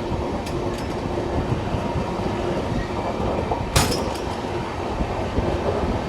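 Passenger train running, a steady rumble of wheels on rails heard from inside the coach, with a few light clicks and one sharp clack nearly four seconds in.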